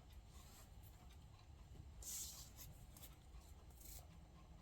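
Mostly near silence, with faint paper rustling as a cut-out paper piece is handled and pressed onto a paper plate, briefly about two seconds in and again near the end.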